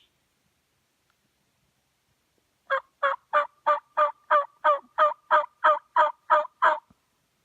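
Hen turkey yelping on a hunter's turkey call, used to draw in gobblers: a run of about thirteen loud, evenly spaced yelps at about three a second, starting nearly three seconds in and lasting about four seconds.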